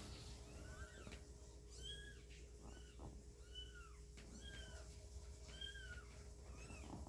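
Newborn kittens mewing: a run of short, high-pitched, arched mews, about one a second, faint.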